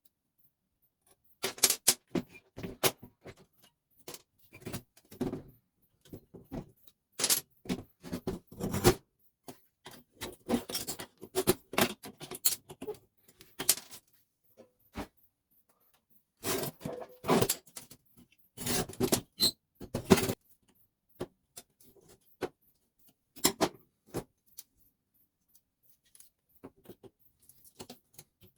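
Irregular clicks, rattles and scrapes of metal and plastic parts as a Telemecanique DK1-EB14 fuse switch is taken apart, coming in bursts with short pauses between them.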